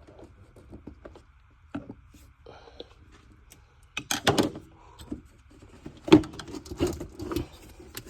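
Clicks and knocks of a car's cold air intake being worked loose and lifted off the engine, with a cluster of knocks about four seconds in and a longer run of them from about six seconds.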